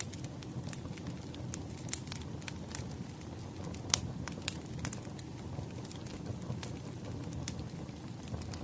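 Wood fire crackling: a steady low rumble of the burning logs with irregular sharp pops and snaps, one louder pop about four seconds in.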